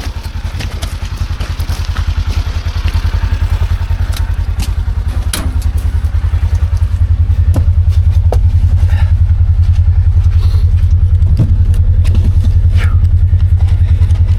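Side-by-side UTV engine running as the machine drives along a snowy trail, growing louder over the first several seconds and then holding steady, with scattered knocks and rattles.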